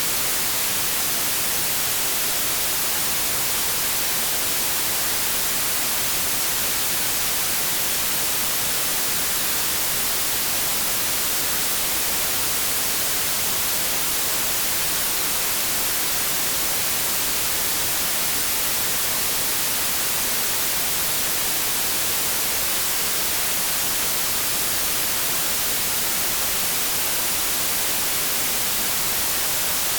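Continuous synthetic white noise: an even, unchanging hiss, strongest in the high end, with no breaks or variation.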